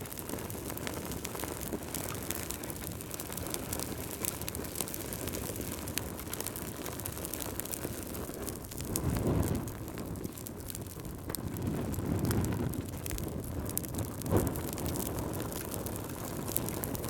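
Wood fire burning in a fireplace, crackling with many small pops over a low rumble of flames. The rumble swells twice around the middle, and a sharper pop comes about three seconds before the end.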